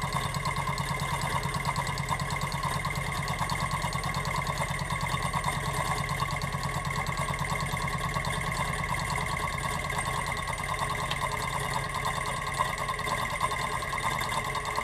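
High-temperature gamma-type Stirling engine running steadily at about 590 RPM: a fast, even mechanical beat with a steady whine over it.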